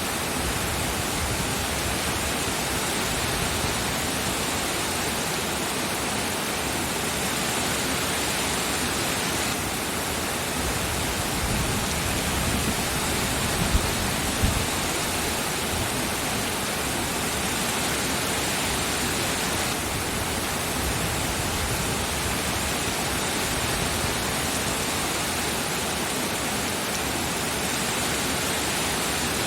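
Steady, dense rain falling, an even hiss with no break. About halfway through, a brief low rumble with two soft thumps rises under it.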